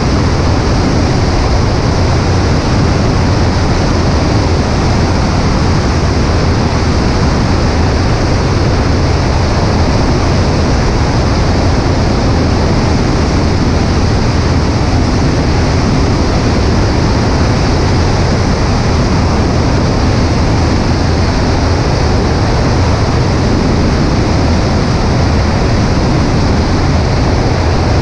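Cessna 140A in flight: steady drone of its piston engine and propeller mixed with heavy wind rush, heard from a wing-mounted camera.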